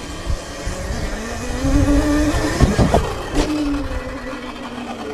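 Sur-Ron electric dirt bike riding past, its motor whining up in pitch and then dropping away, with rumble of tyres and wind. It is loudest in the middle, then fades.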